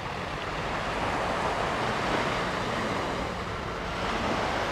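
Surf washing onto a sandy beach, a steady rushing with wind buffeting the microphone.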